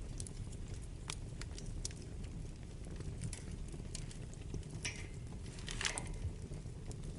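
Wood fire burning in a fireplace: a steady low rumble of flames with scattered sharp crackles and pops, a brief cluster of louder crackles a little before the end.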